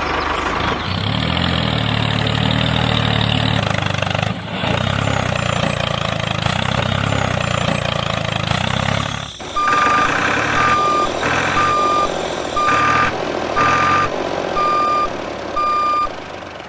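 A vehicle engine runs steadily. About nine seconds in it drops to an idle, and a reversing beeper sounds about seven times in short, evenly pitched beeps.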